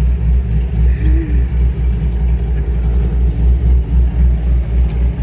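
Car engine idling close by with a deep, steady rumble that pulses evenly in loudness.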